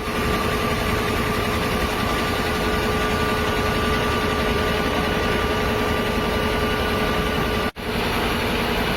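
Fire engine's engine idling with a steady hum, briefly cut out near the end.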